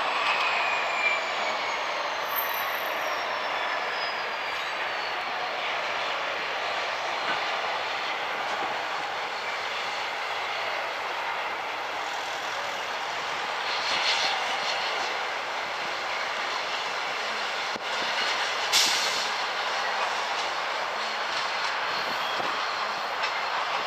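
Freight train rolling along the rails: a steady rush of wheel and track noise. In the first few seconds a high squeal glides down in pitch.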